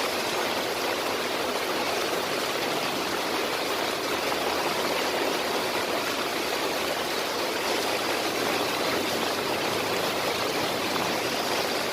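Steady rushing water, an even hiss with no breaks or single drops standing out.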